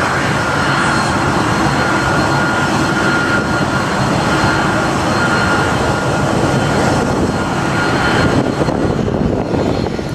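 Boeing 777-200's twin turbofan engines running at high power: a loud, steady jet roar with a high whine on top, the whine fading away near the end.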